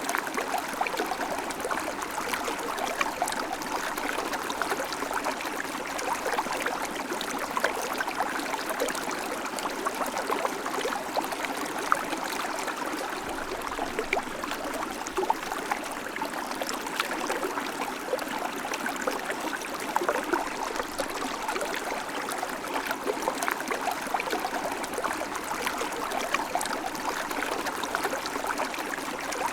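River water flowing over stones, a steady rushing with fine splashing and gurgling.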